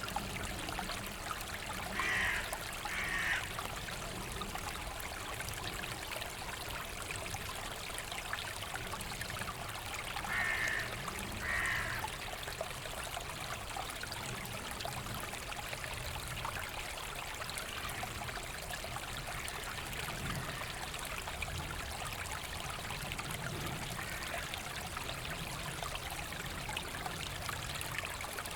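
Forest stream trickling and splashing steadily. A bird gives two short calls about two seconds in and two more about ten seconds in.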